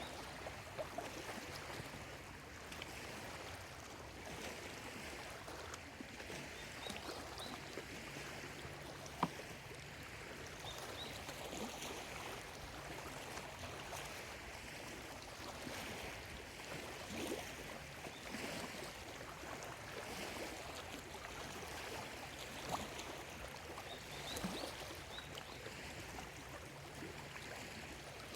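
Small lake waves lapping steadily at the shore, a constant wash that swells and eases every few seconds, with a few sharp little splashes or clicks.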